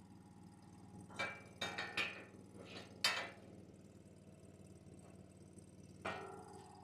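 Short steel picket pieces being handled and set against the gate frame: a few light metal knocks and clanks, bunched in the first three seconds with one more near the end, over a steady low hum.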